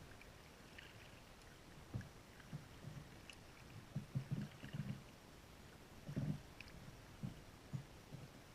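Kayak paddling: paddle strokes and water slapping against the kayak hull, soft low thumps coming irregularly every second or so, with faint small splashes.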